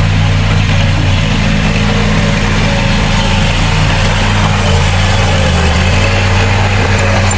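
Heavy diesel engine of earthmoving machinery running steadily at low revs.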